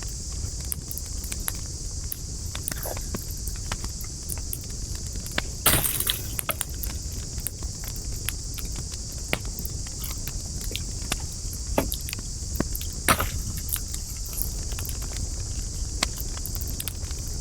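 Wood campfire crackling: scattered sharp snaps and pops over a steady hiss and low rumble, with a louder burst of crackling about six seconds in and another loud pop near the end.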